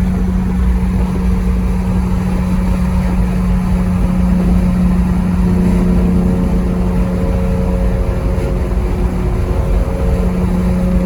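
Steady drone of a BMW E46 323i on the move, heard from inside the cabin: a constant low hum of engine and road noise with no change in pitch.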